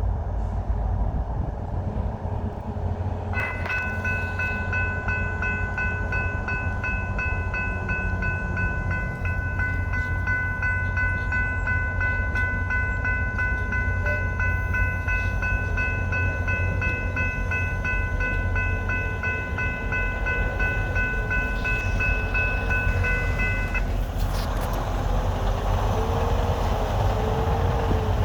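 VIA Rail EMD F40PH-2 diesel locomotives idling and moving slowly during switching, with a steady low engine rumble. A steady high-pitched tone sounds over it from about three seconds in, stops a few seconds before the end, and comes back near the end.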